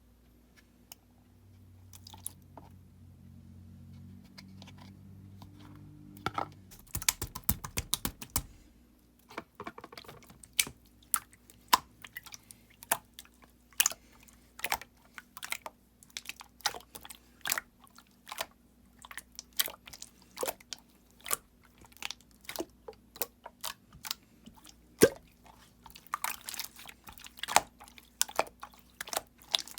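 Clear slime being pressed and folded by hand, giving sharp wet clicks and pops as air pockets burst. They come one or two a second, with quick runs of them about seven seconds in and again near the end.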